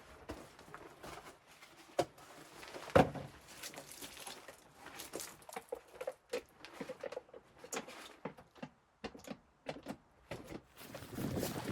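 Scattered irregular knocks and clicks, with two sharper knocks about two and three seconds in.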